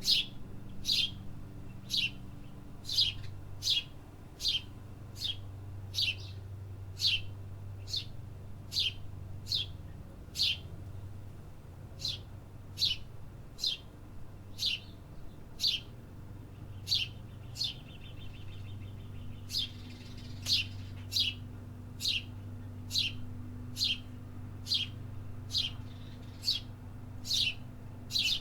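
A bird repeating one short chirp that falls in pitch, over and over, about three every two seconds, with a brief buzzy trill about two-thirds of the way through. A steady low hum runs underneath.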